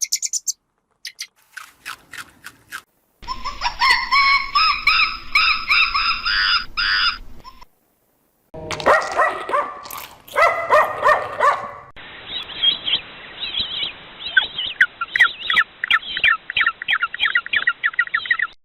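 A run of separate animal-call recordings cut one after another with short silences between: a few clicks, then stretches of high, wavering bird-like calls, ending in rapid repeated chirping.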